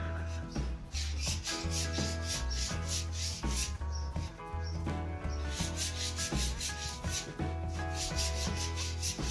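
Sandpaper rubbed back and forth along a new wooden snooker cue shaft in quick repeated strokes, roughening the surface so that paint will hold.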